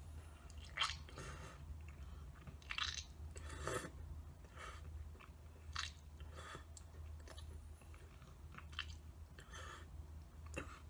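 Faint, wet chewing and mouth sounds of a man working a chaw of plug chewing tobacco, coming in scattered short crackly bursts.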